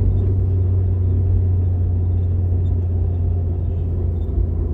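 Car engine and road noise from inside the cabin while driving at a steady speed: a steady low hum.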